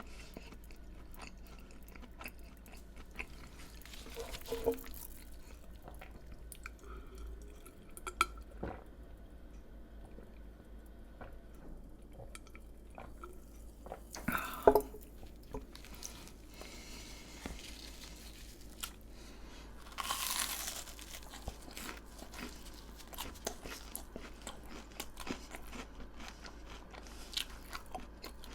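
Close-miked chewing of crisp fried food, with small crackly crunches throughout and a few louder crunching bites several seconds apart.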